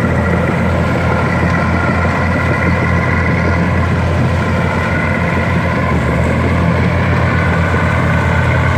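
Komatsu D60P crawler bulldozer's diesel engine running steadily and loud, a low drone with a steady high whine above it.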